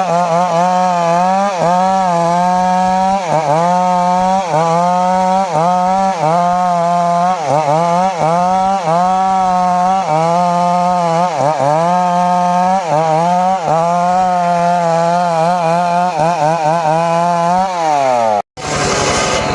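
Two-stroke chainsaw running at high revs while cutting into johar wood, its pitch dipping briefly every second or so as the chain bogs under load. Near the end the revs fall away and the sound cuts off suddenly.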